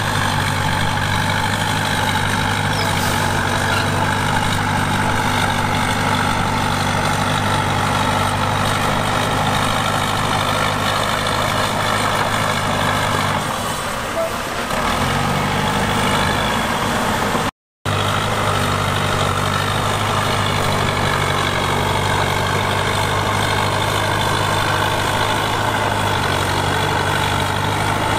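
Heavy diesel engine of earthmoving equipment running steadily under work, its note shifting briefly about halfway through. The sound drops out completely for a moment a little past the middle.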